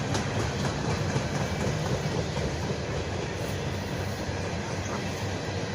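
Yanmar tractor's diesel engine running steadily, a low rumble with a rattle over it.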